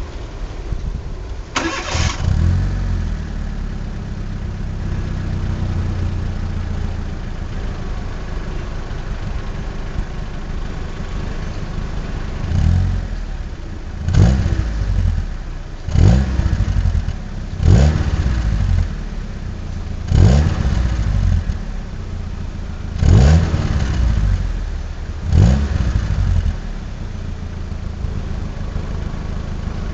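Fiat Panda mk1 1100cc four-cylinder engine through a Ragazzon stainless-steel exhaust, warm. It comes up sharply about two seconds in and idles. In the second half it is blipped seven times, each rev rising briefly and dropping back to idle.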